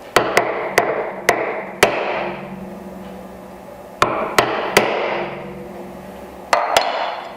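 Chisel being struck with a mallet to chop waste out of a dovetail socket: about ten sharp strikes in three bursts, each with a brief ring after it.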